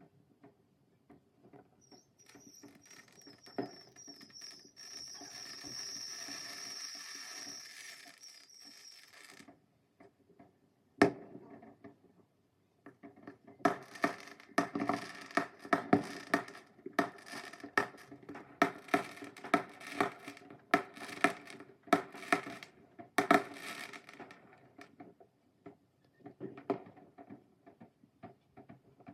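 Fireworks: a hissing whistle with a wavering high pitch for several seconds, then one sharp bang, then a long run of rapid crackling pops lasting about ten seconds before they thin out.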